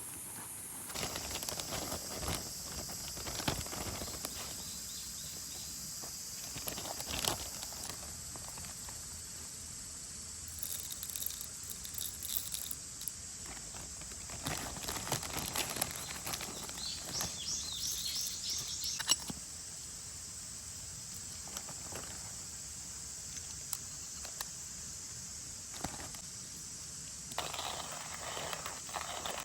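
Outdoor ambience: a steady high-pitched insect drone, a short run of bird chirps about 17 seconds in, and scattered light clicks and crackles.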